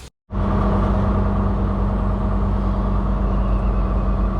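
Semi truck driving down the road: a steady engine drone with one strong, even pitch over a heavy low rumble, starting just after a split-second of silence.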